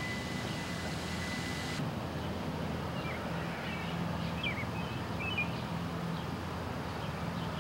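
Small birds chirping in short, high calls from about three seconds in, over a steady low hum.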